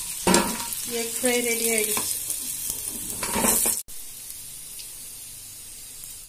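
Cornflour-coated boiled egg pieces deep-frying in hot oil, sizzling, with louder stirring sounds and short pitched squeaks in the first two seconds. At about four seconds the sound drops suddenly to a quieter steady hiss.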